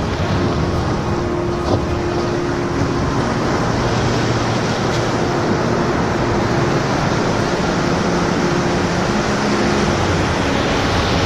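Ocean surf: a steady, unbroken rushing wash of waves, with faint held low tones drifting in and out beneath it.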